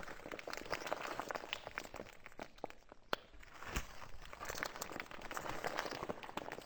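Slime being squished and worked by hand, giving a dense run of small crackles and pops.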